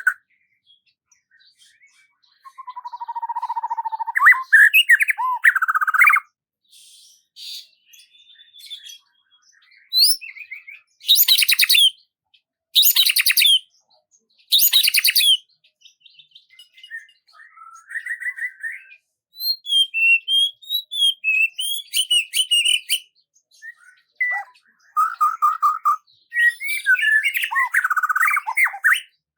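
Songbirds singing and calling in separate phrases with short silences between them: a warbling phrase, three loud harsh notes about a second and a half apart, then a run of high chirps and fast chatter near the end.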